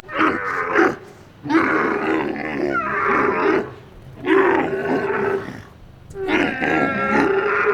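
An animal calling repeatedly: four drawn-out pitched calls, each about one to two seconds long, with short pauses between them.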